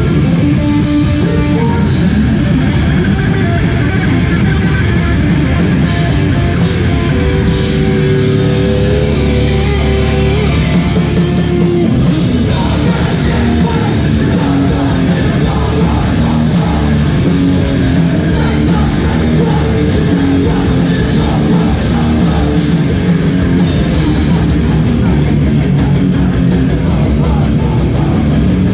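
Hardcore band playing live: loud, distorted electric guitars over bass and drums. Some notes are held for a couple of seconds about a third of the way in, and busier playing picks up again after that.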